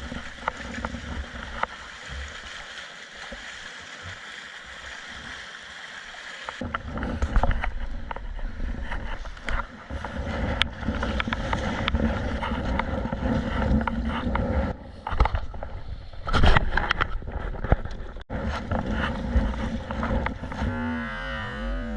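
Sea water sloshing and splashing around a kayak, with a low rumble of wind on the microphone from about a third of the way in and occasional short knocks. Background music comes in near the end.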